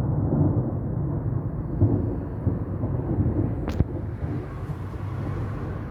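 Thunder rolling, a long low rumble that slowly fades, with one sharp click a little past halfway.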